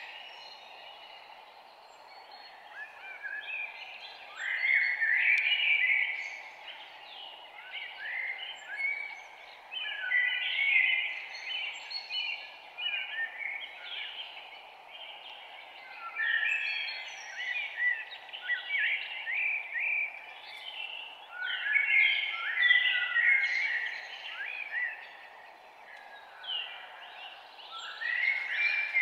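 Songbird singing short, chirping song phrases of gliding notes, about every five seconds, over a steady background hiss.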